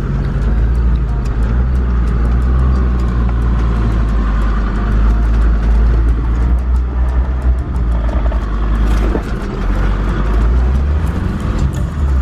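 A four-wheel drive driving slowly along a bush track: a steady low engine drone with tyre and body noise, and scattered clicks and knocks throughout.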